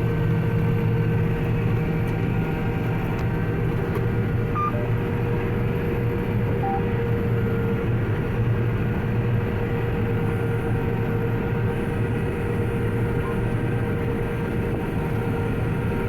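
John Deere 9750 STS combine running steadily while harvesting wheat, heard from inside the cab: a constant engine and machinery drone with several steady hum tones.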